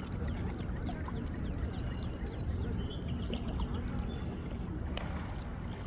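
Small birds chirping in many quick, high, short calls, with a few thin whistled notes, over a steady low rushing noise.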